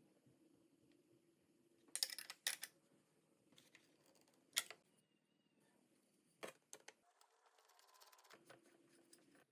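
Near silence with faint room tone, broken by a few short, sharp clicks and knocks: a quick cluster about two seconds in, a single loud click near the middle, and another a couple of seconds later.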